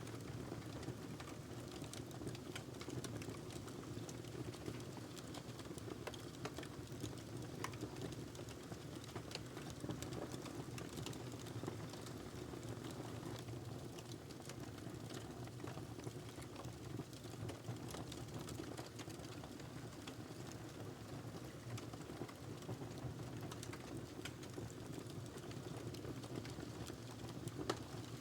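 Wood fire crackling in a fireplace: a steady low rush of flames with frequent small, sharp pops, one a little louder near the end.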